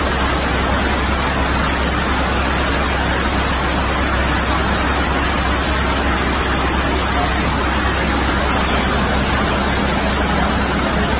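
Steady, unbroken rushing of water: torrential rain or floodwater pouring, running on without letup.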